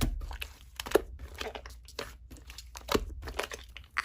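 Slime being squeezed and worked by hand, with irregular crinkly, crunchy crackles and clicks.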